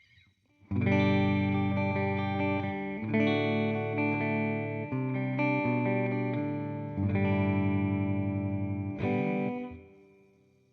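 Fender Jazzmaster Modern Player electric guitar with humbuckers, played through an AmpliTube 4 simulation of a Fender '65 Twin Reverb amp. Sustained chords change about every two seconds and ring out near the end.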